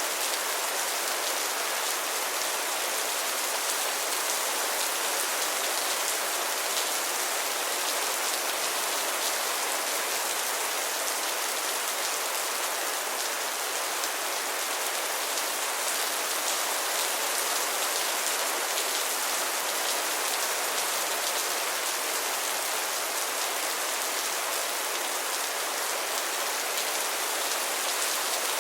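Heavy rain falling steadily, a dense even hiss with fine pattering of drops.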